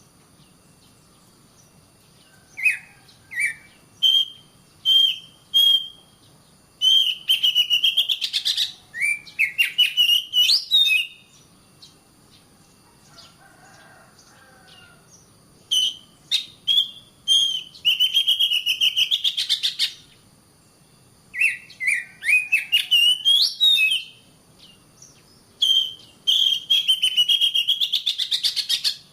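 Oriental magpie-robin (kacer) singing: phrases of rapid chattering notes mixed with whistles, each lasting one to four seconds, separated by pauses, with a longer pause about halfway through.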